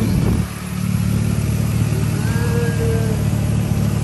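A car engine running steadily under way, a constant low drone with road noise.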